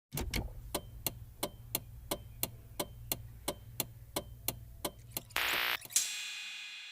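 Regular mechanical ticking, about three ticks a second over a low hum, ending with a short hissing burst and a click that rings away.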